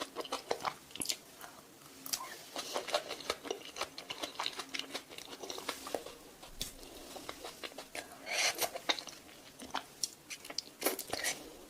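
Close-miked biting and chewing of fruit: irregular runs of crisp crunching clicks, with louder bouts of crunching near eight and eleven seconds in.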